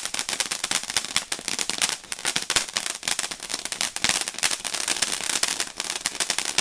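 Ground fountain firework going off with a dense, rapid crackle of small pops that never lets up.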